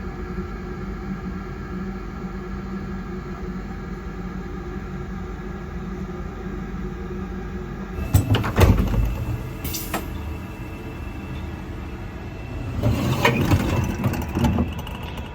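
Passenger train running, heard on board: a steady hum with several steady tones, then from about eight seconds in two louder stretches of rattling and knocks.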